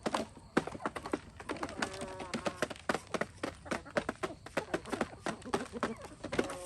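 Chickens pecking at scattered corn: many rapid, irregular sharp clicks, with a short clucking call about two seconds in and another near the end.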